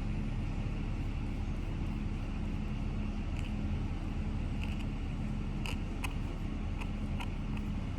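Steady low drone of a motor running at constant speed, with a few faint short ticks over it.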